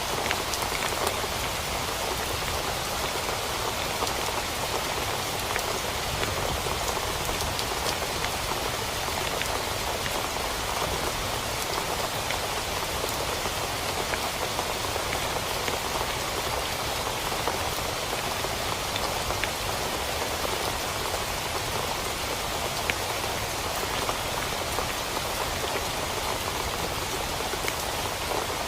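Steady heavy rain drumming on a tent, a dense hiss with many small sharp drop impacts.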